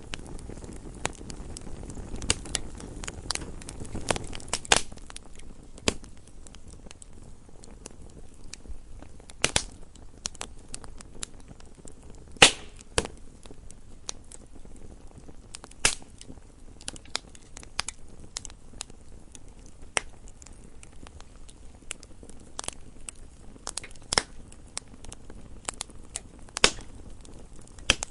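Wood fire burning in a fireplace: irregular crackles and sharp pops over a low hiss of flame, with the loudest pop about twelve seconds in.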